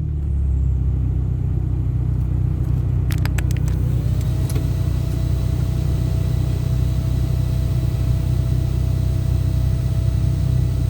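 Car driving with its engine running steadily, a low rumble throughout. A few quick clicks come about three seconds in, and a faint steady whine sets in about a second later.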